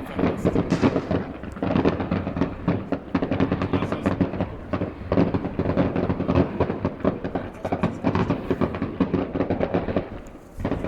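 A fireworks display heard from a distance: a dense, continuous run of overlapping bangs and crackles with hardly a gap, easing briefly near the end.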